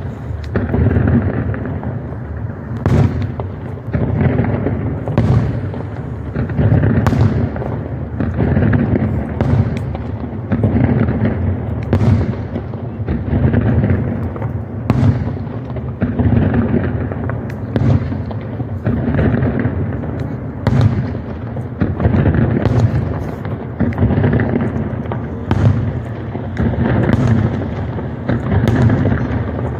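Fireworks display in full flow: a dense, continuous rumble of overlapping blasts, with sharper cracks every second or two.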